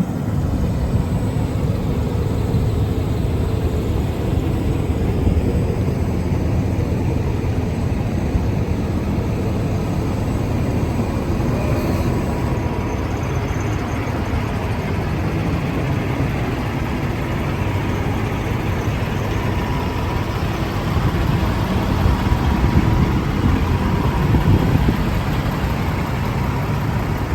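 Paccar diesel engine of a Kenworth T680 semi truck idling steadily with a deep rumble, a little louder for a few seconds near the end.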